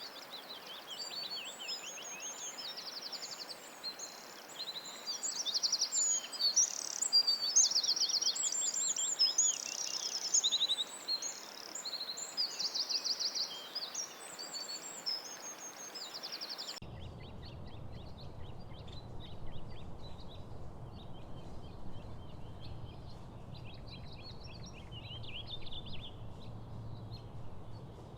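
Songbirds singing in a busy chorus of trills and chirps. About seventeen seconds in it cuts abruptly to a quieter ambience of fainter, more scattered bird calls over a low steady rumble.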